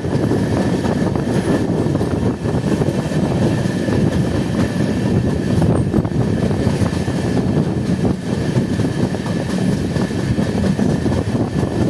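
Train running over a steel railway bridge: a steady heavy rumble with a dense clatter of wheels on the rails and a faint steady high whine.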